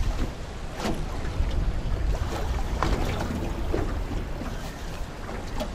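Strong wind buffeting the microphone with a heavy low rumble, and waves slapping against the side of a small boat in short irregular knocks.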